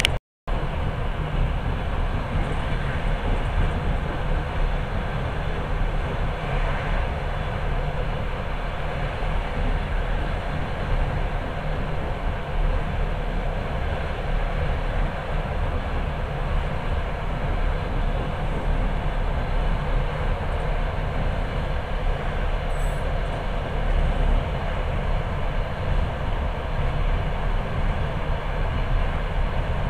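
Steady rumble of a moving passenger train, heard from inside the carriage. The sound drops out for a fraction of a second right at the start.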